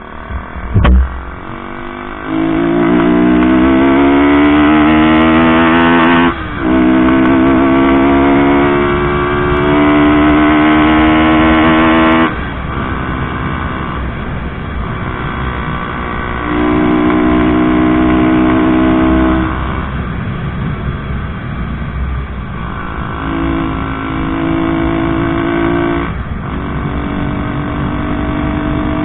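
Bajaj Pulsar NS 160's single-cylinder engine on a test ride: it accelerates through the gears with the pitch rising in each gear, breaks briefly at gear changes about 6 and 12 seconds in, then eases off and pulls again several times. The run-up follows a repair of the bike's idle-RPM and stalling fault, and the engine keeps running without cutting out.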